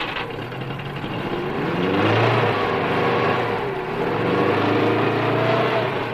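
Small rear-mounted air-cooled V4 engine of a ZAZ-965 Zaporozhets revving as the car accelerates away, its pitch rising twice.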